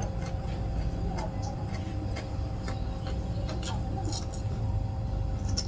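Eating sounds: scattered small clicks, smacks and crunches of crispy fried catfish and rice being chewed, over a steady low hum.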